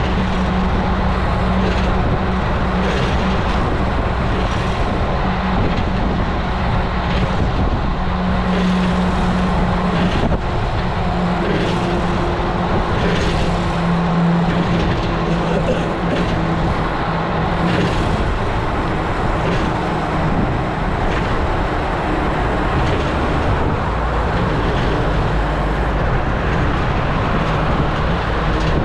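Wind rushing over a bike-mounted action camera's microphone and road noise while riding a road bike, with a hum that wavers in pitch and occasional light knocks from the road surface.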